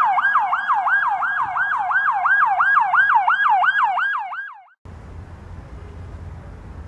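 Electronic police-style siren in a fast yelp, about three sweeps a second, that cuts off about five seconds in. A steady low hum with noise follows.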